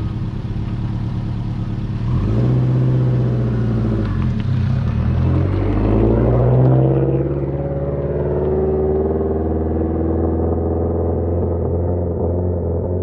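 Subaru Impreza WRX STI's big-turbo flat-four boxer engine, revved twice, about two seconds in and again around five seconds, the pitch rising and falling each time, then settling back to a steady running note.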